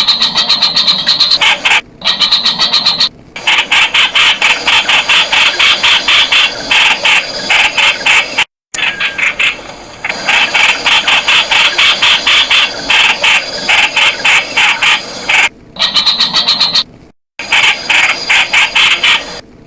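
Streak-eared bulbul calling: a fast run of short, sharp chirping notes, several a second, which stops abruptly for a moment twice.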